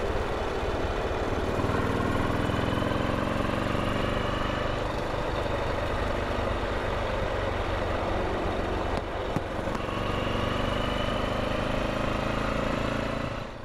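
BMW R27 single-cylinder four-stroke motorcycle engine running under way, its pitch climbing twice as the revs rise. A brief click about nine seconds in, and the sound fades out at the very end.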